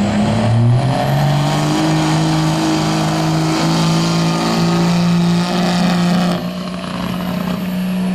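Turbocharged engine of a pulling vehicle at full throttle hauling the weight sled. The engine note climbs in the first second and then holds steady, with a high turbo whistle above it. About six seconds in the engine eases off and the whistle fades away.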